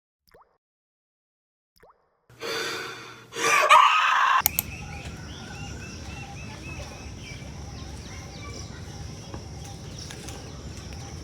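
Steady outdoor background with birds chirping over and over, after a brief loud burst of sound about two to four seconds in.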